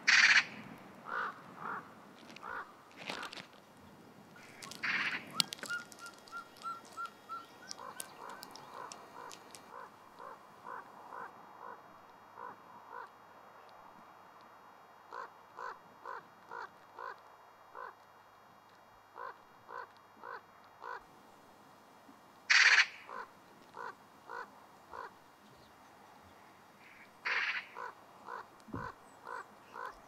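Birds calling: a long run of short, evenly spaced calls, two to three a second, broken by a few louder, harsh calls at the start, about five seconds in, and twice in the last third.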